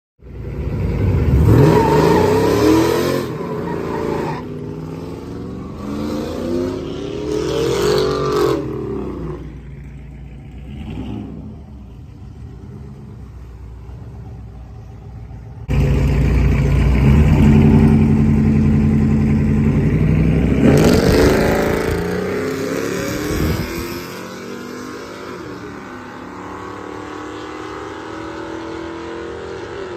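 Drag-race car engines revving and accelerating hard. Their pitch sweeps up and down as cars go past, in several abruptly cut stretches. A loud steady engine comes in suddenly a little past the middle.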